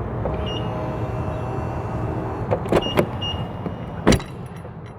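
Power-folding side mirrors of a BMW X5 M whirring in as the car locks. There are a few sharp clicks near the middle and a louder click about four seconds in.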